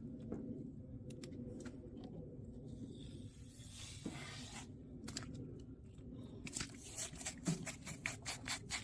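Scattered faint clicks and rustling, then from about two-thirds of the way in a quick run of short scraping or rubbing strokes, several a second, growing louder.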